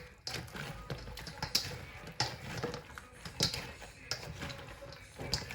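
Irregular clicks and taps of a utensil against a large bowl as chicken pieces are tossed and coated in sauce.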